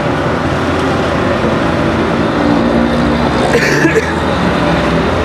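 Homemade waste-oil burner stove running, its electric blower forcing air into the burning used engine oil: a loud, steady roar with a low hum. A brief hiss cuts in about three and a half seconds in.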